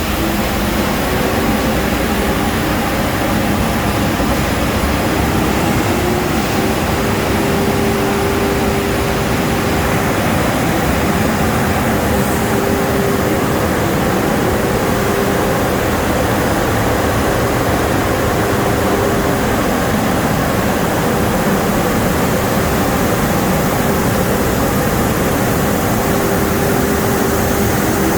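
Car wash dryer blowers running, a loud, steady rush of air with a steady hum.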